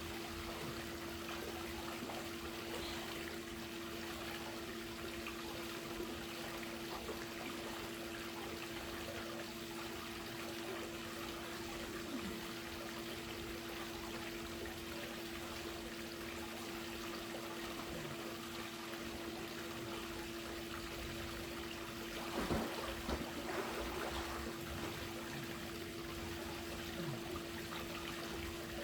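Swimming-pool water trickling and pouring steadily, with a steady low hum under it. A few brief louder sounds come about three quarters of the way through.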